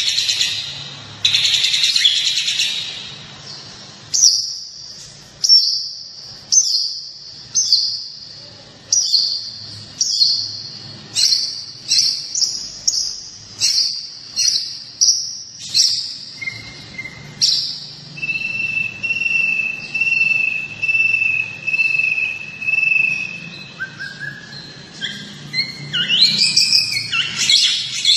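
Songbird song from a masteran tutor recording. It opens with dense chattering, then runs into a string of short, sharp, high notes, each dropping in pitch, a little over one a second. Later comes a long, even, pulsing trill, then rising notes and chatter again near the end.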